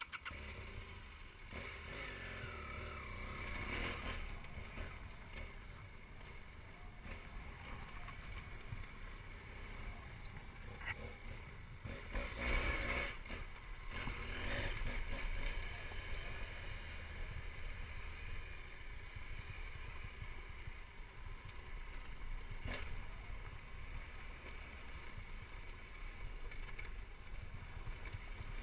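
BMW F800GS motorcycle's parallel-twin engine running as the bike is ridden slowly over rough gravel, starting up loud at the very beginning and continuing steadily, a little louder for a few seconds near the middle.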